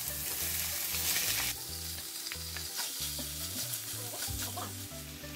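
Raw chicken pieces sizzling as they go into a stone-coated pan of hot oil, onions and spices, stirred and scraped with a wooden spatula. The sizzle is strongest at first and eases off about a second and a half in.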